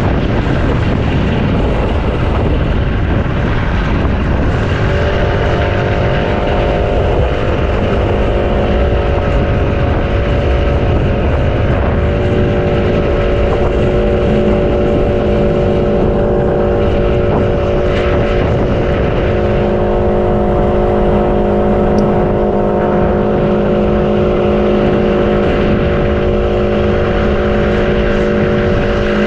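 A motor running steadily over wind noise; about five seconds in, a hum of several close steady tones sets in and holds.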